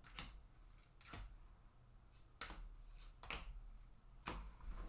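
Baseball trading cards handled and set down on a table: about five soft clicks and taps, spaced roughly a second apart, over a low background hum.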